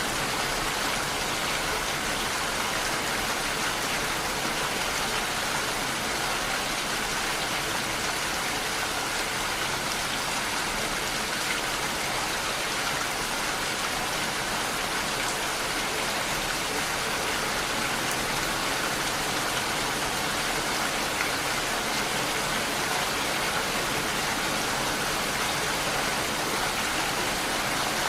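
Steady rain falling, an even hiss with no change in strength and no thunder.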